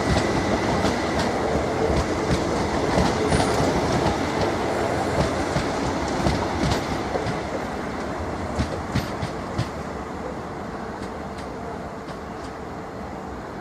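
A train running along the track, its wheels clicking over rail joints amid a steady rumble that fades gradually as it moves away.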